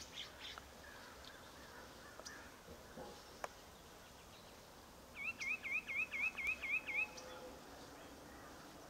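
A bird calling a quick run of about eight clear notes, each dipping and rising in pitch, a little past halfway through, with faint scattered chirps before it.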